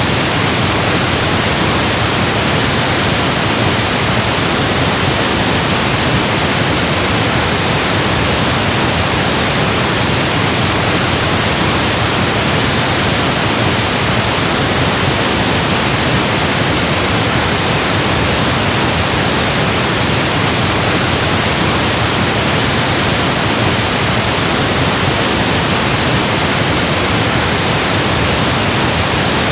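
Steady electronically generated pink noise, an even hiss spread across all pitches that does not change.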